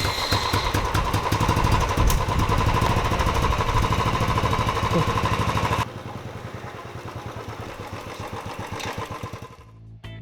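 Royal Enfield Bullet's single-cylinder engine running with a rapid, even exhaust beat, just after finally starting from cold after about three months standing. About six seconds in the sound drops suddenly quieter, then fades out near the end.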